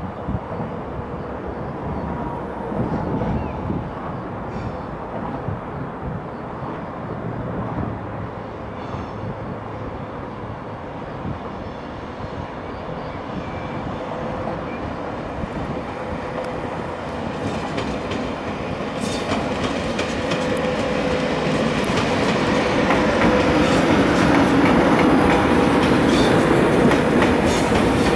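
A train running past on the rails, getting louder over the last third, with its wheels clicking over the rail joints and a faint steady whine.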